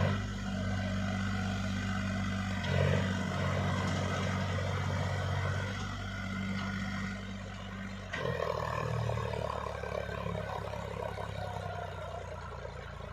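Solis tractor's diesel engine running steadily under load, hauling a fully loaded trolley, with a brief surge about three seconds in and a change in its note just past the middle.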